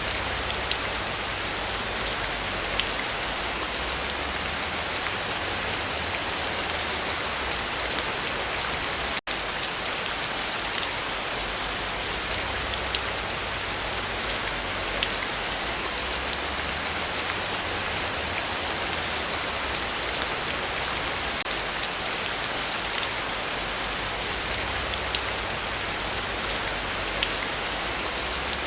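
Heavy, steady rainfall: a dense even hiss of rain with fine individual drop ticks. The sound cuts out for an instant about nine seconds in.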